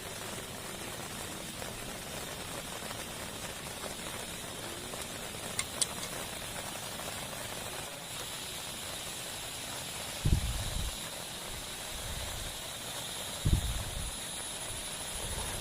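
Heavy rain falling steadily with an even hiss. Two brief low thumps come about ten and thirteen seconds in.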